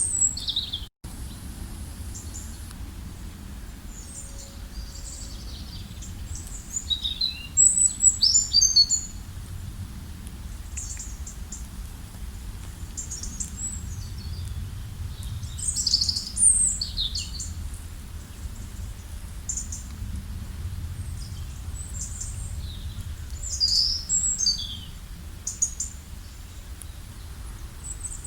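Several wild birds chirping and trilling in short, quick phrases, busiest about a quarter of the way in, in the middle and near the end, over a steady low rumble. The sound drops out for an instant about a second in.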